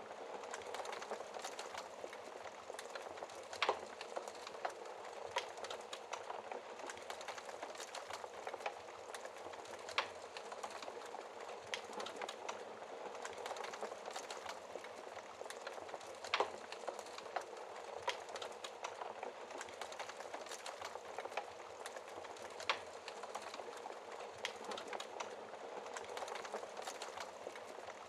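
Fire crackling in a fireplace: a steady hiss with constant small crackles and a few sharper, louder pops every several seconds.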